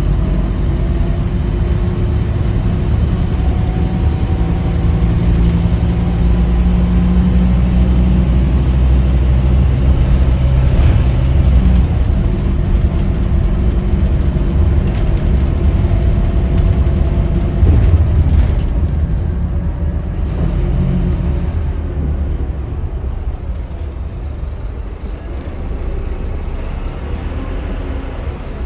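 Scania K310UB bus's diesel engine running and pulling, its note rising and falling with the gears. There is a brief louder burst about eighteen seconds in, after which the engine sound drops away quieter.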